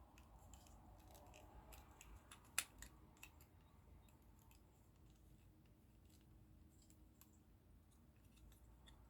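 Near silence with a few faint, sharp clicks of small plastic model parts being handled, the loudest about two and a half seconds in.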